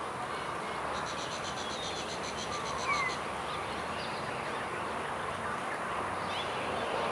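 Outdoor ambience: a steady background hiss with a few short bird chirps and, about a second in, a rapid high-pitched trill lasting about two seconds.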